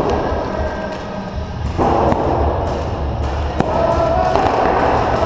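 Paintball markers firing a few sharp single shots over a steady noisy background, with distant wavering calls.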